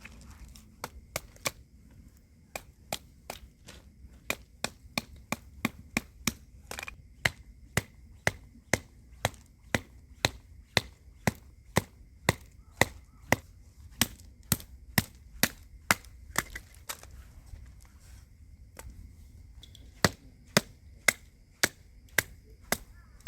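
Steady chopping strikes, about two a second, each a sharp crack. They stop for a few seconds and then start again near the end.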